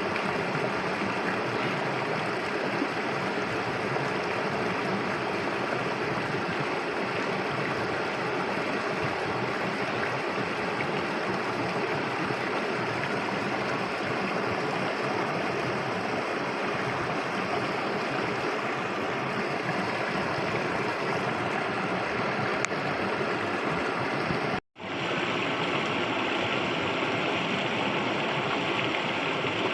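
Steady rush of flowing river water. It cuts out for a moment about 25 seconds in and resumes slightly brighter and hissier.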